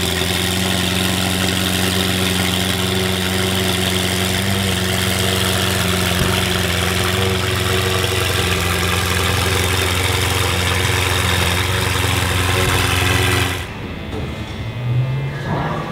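Ferrari supercar engine idling steadily just after a cold start. About two seconds before the end it cuts off suddenly to a much quieter background.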